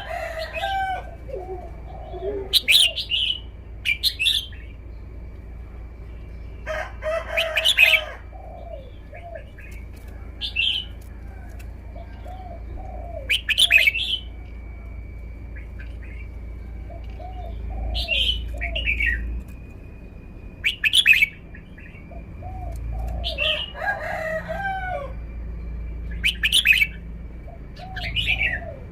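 Red-whiskered bulbul singing short, loud phrases every two to three seconds, with softer, lower chirps in between. A faint steady high tone runs underneath.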